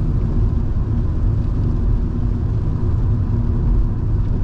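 Inside the cabin of a Volvo V70 2.5T on the move: a steady low rumble of its turbocharged five-cylinder engine and tyre and road noise.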